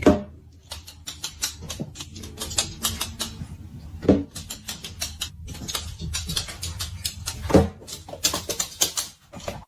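Quick, irregular clicking and scratching, with three louder knocks: one at the start, one about four seconds in and one about three and a half seconds later.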